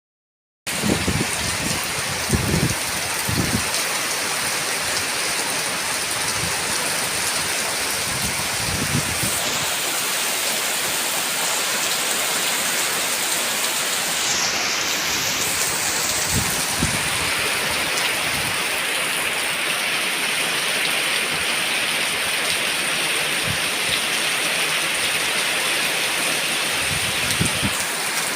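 Heavy rain falling steadily, with a few brief low thumps now and then.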